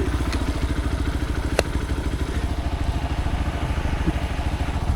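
Motorcycle engine running steadily at low revs, with a sharp click about one and a half seconds in.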